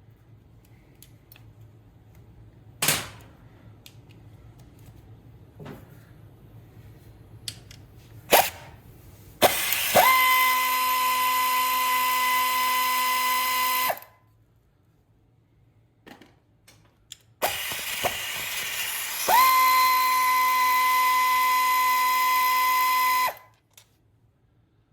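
Power driver backing out the 8 mm valve-cover bolts on a GY6 150cc engine: two runs of about four and six seconds, each starting rough and settling into a steady whine. A few sharp tool clicks come before them.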